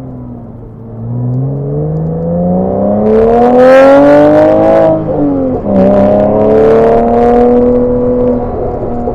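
Porsche 987 Boxster's flat-six DOHC engine with VarioCam accelerating hard, its note rising steadily through the revs. About five and a half seconds in, the pitch drops with an upshift, then climbs again in the next gear and levels off.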